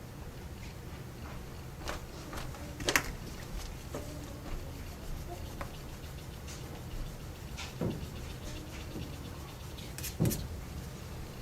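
Drawing tools handled on paper: a few sharp taps and knocks, the loudest about three seconds in and about ten seconds in, over a low steady hum.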